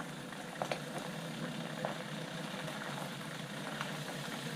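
A vehicle engine idling steadily, with a few faint ticks over it.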